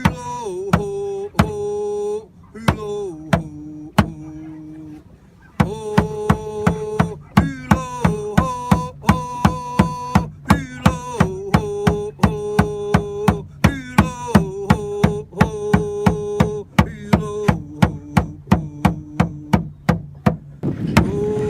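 Chanted song: voices sing long held notes that step between a few pitches, over a struck beat. The beat is sparse at first, then steady at about two strikes a second from about six seconds in.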